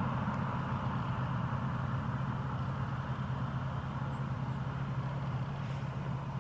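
Flowmaster-muffled V8 exhaust of a 1996 GMC Sierra pickup running steadily, a low, even drone.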